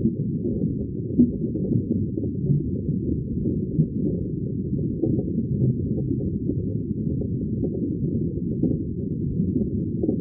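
Underwater ambience: a steady low, dull wash of water with scattered small bubble pops, a couple of them a little louder, about a second in and near four seconds.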